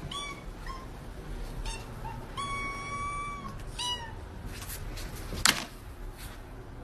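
Cat meowing in a series of high-pitched mews: four short ones and one held for about a second, the last one falling in pitch. A single sharp knock comes near the end.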